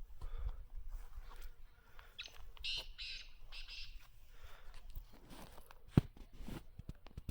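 Faint harsh calls of a black francolin, a short run of rasping notes about three seconds in, over a low rumble. A single sharp click comes near the end.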